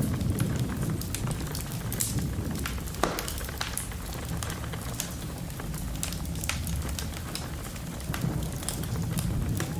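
Fireplace fire crackling, with irregular sharp pops scattered throughout over a steady low rumble.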